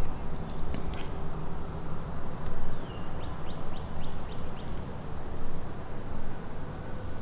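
Small birds chirping, with a quick run of five or six short chirps about three seconds in, over a low, uneven rumble of wind on the microphone.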